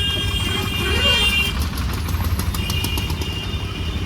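A vehicle horn honks in road traffic, held for over a second at the start and sounding again near the end, over the steady low rumble of a vehicle on the move.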